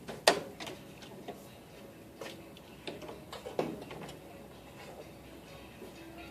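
A handful of sharp clicks and knocks, like tools or parts being handled during an oil change. The loudest comes about a third of a second in, and the rest are spread over the next three seconds.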